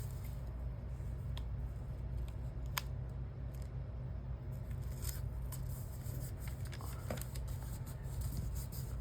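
Paper being handled and peeled at a craft table: a few light, scattered clicks and soft rustles over a steady low hum.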